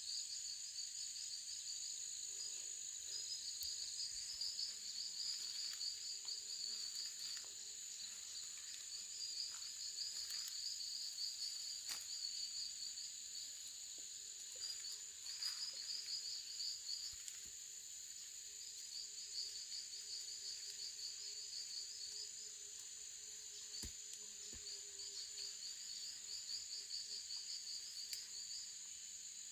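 Insects calling in chorus: a steady high-pitched buzz with, below it, repeated trains of rapid chirping that run for a few seconds and pause, again and again.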